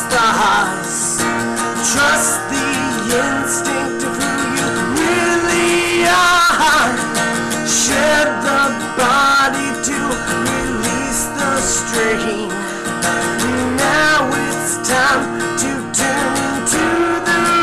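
Acoustic guitar strummed and picked, with a man singing over it.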